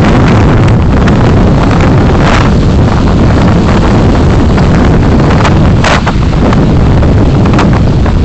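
Loud, distorted low rumble of a car on the move, picked up by a dashcam microphone, with a few sharp clicks about two and six seconds in.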